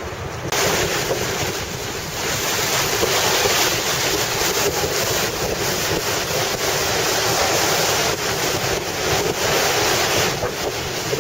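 Ocean surf breaking, with wind buffeting the microphone. A surge of hissing wash starts about half a second in and eases a little near the end.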